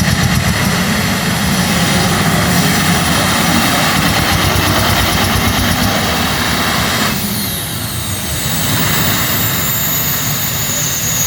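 Four turboshaft engines of a pulling tractor running hard with a dense jet-like noise. About seven seconds in they are throttled back, leaving a high turbine whine that falls in pitch as the engines spool down.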